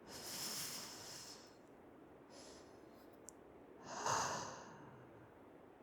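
A man's close-miked breathing: a long breath at the start, a faint one midway, then a louder breath out about four seconds in, with a short click just before it.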